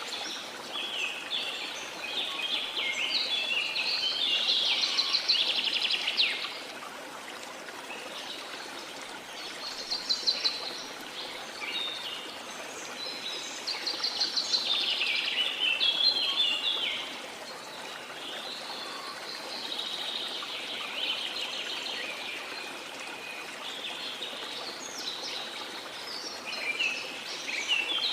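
Birds singing in repeated bouts of rapid chirps, loudest in the first few seconds, again around the middle and near the end, over the steady rush of a flowing river.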